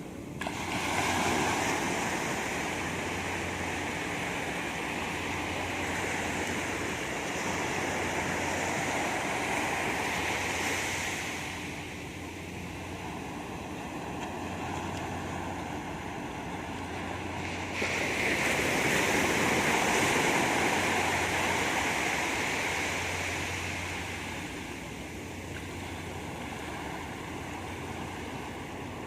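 Sea waves breaking and washing up on a sandy beach, the surf rising in two long swells, the second about eighteen seconds in, under a faint steady low hum.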